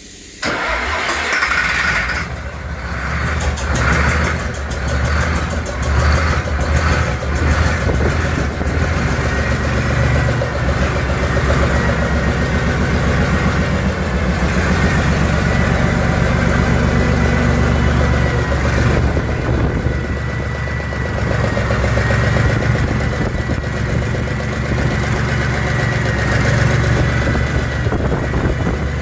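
DAF PE228C inline-six diesel engine of a CF75 truck starting up about half a second in. It surges a few times over the next several seconds, then runs at a steady idle.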